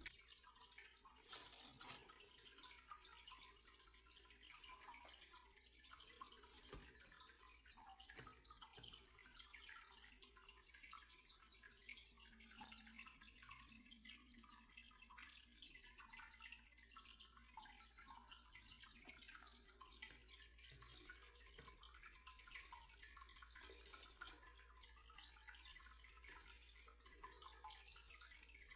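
Faint, irregular dripping and trickling of water, many small ticks close together, over a low steady hum.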